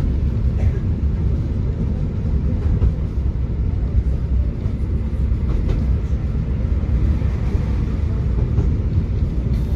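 A tram running along its tracks: a steady low rumble with a few faint clicks.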